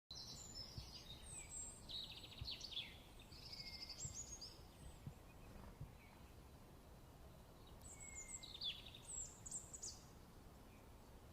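Songbirds chirping and trilling outdoors: quick high-pitched calls and short trills in two bouts, with a pause of a couple of seconds in between.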